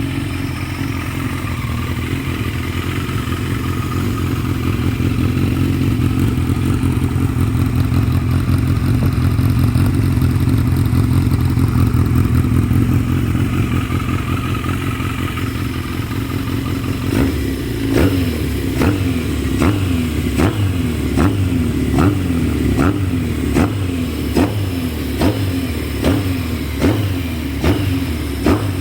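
Custom Yamaha XJ750E's air-cooled inline-four, bored out and breathing through a modified XJR muffler with a shortened silencer, running at a steady idle just after starting. About 17 seconds in, quick throttle blips begin, roughly one a second, each rev dropping straight back.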